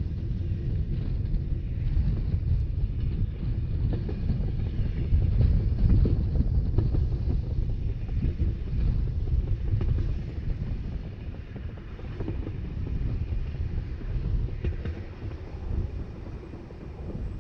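Rhaetian Railway narrow-gauge train running, a steady low rumble of wheels on rails with wind buffeting the microphone. It grows quieter in the second half as the train slows.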